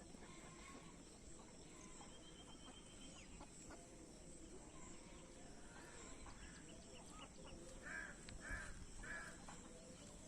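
Faint outdoor quiet with a steady high hiss. A bird calls three short times in quick succession near the end.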